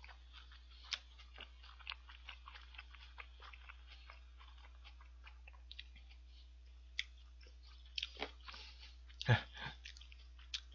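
A person chewing a mouthful of McDonald's 1955 Smoky burger, a double-bacon burger with barbecue sauce, with many small mouth clicks, and one short, louder throat sound about nine seconds in.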